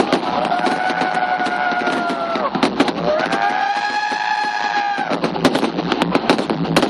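Fireworks display: a dense run of bangs and crackles. Two long, steady horn-like tones of about two seconds each sound over it, each dropping in pitch as it stops.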